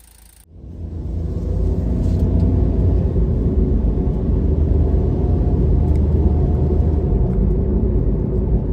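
Daihatsu Hijet running, a steady loud low rumble that swells in about half a second in and holds evenly.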